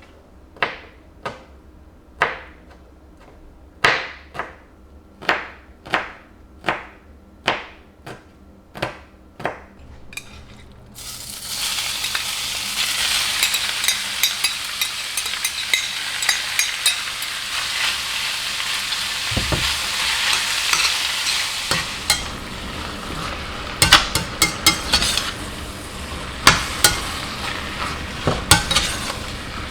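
About a dozen evenly spaced knocks, then a hot pan suddenly starts sizzling loudly about a third of the way in and keeps frying, as when batter for bánh xèo (Vietnamese crispy pancake) goes into hot oil. Sharp clinks of a utensil on the pan come over the sizzle in the last third.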